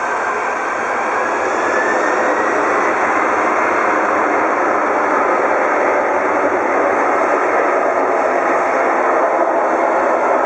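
Boeing 747-400's four Pratt & Whitney PW4056 turbofan engines running loudly, a whine rising in pitch over the first few seconds and then holding steady as they spool up for takeoff.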